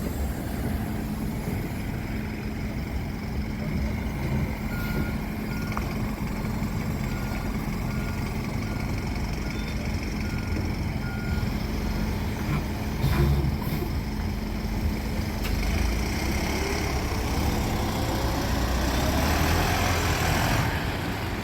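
A bus engine running in queued traffic while its reversing alarm sounds a row of short, evenly spaced beeps for several seconds as it backs up to turn around. Near the end an engine note rises as a vehicle pulls away.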